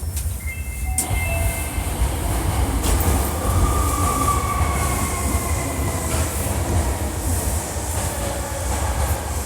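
Hankyu 1300 series electric train running, heard from inside a car known for an unusual running noise: a steady low rumble of wheels on rail, with several thin whining tones from the motors that slide slowly downward as the train slows.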